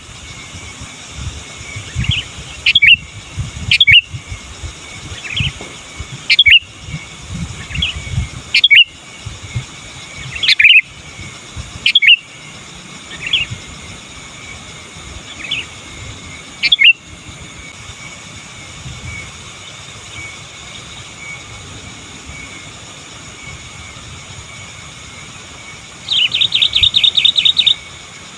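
Sooty-headed bulbul (kutilang) calling: short, bright notes every second or two, then a lull, and near the end a fast rattling run of repeated notes.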